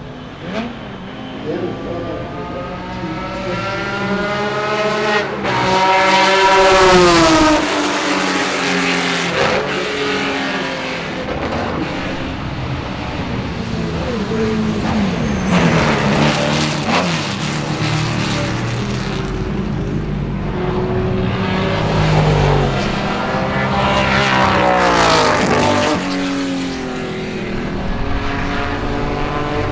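Classic Ferrari 250-series V12 race cars running at racing speed past the track, engine pitch climbing and then dropping as each car goes by. This happens several times.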